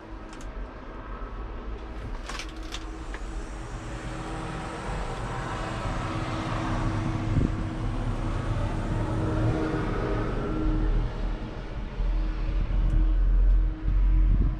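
Deutz-Fahr 7250 Warrior TTV tractor's 6.1-litre six-cylinder diesel engine running, growing steadily louder as it comes closer, with a few brief clicks about two seconds in.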